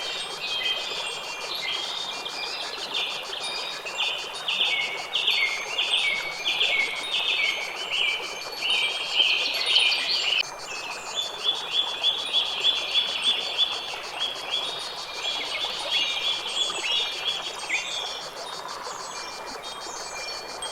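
Songbirds chirping in rapid runs of short repeated notes over a steady background hiss. The pattern breaks off and changes abruptly about halfway through.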